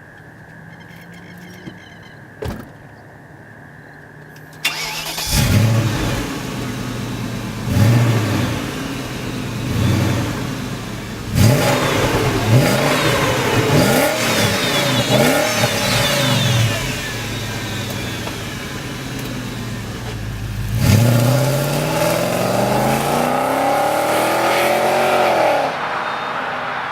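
1998 BMW E39 540i's 4.4-litre V8 on its stock exhaust. It is low and steady at first, then about five seconds in it turns suddenly louder and is revved in a series of short blips. Near the end one longer rev climbs for several seconds and then drops off.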